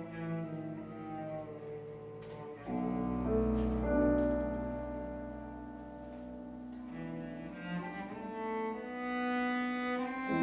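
Live classical chamber music: bowed strings, with cello prominent, over piano, holding long notes, with a fuller, louder chord entering about two and a half seconds in.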